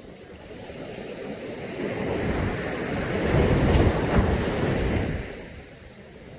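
A Caribbean sea wave breaking on the beach: the surf noise builds over a couple of seconds, peaks about four seconds in, then washes out and fades.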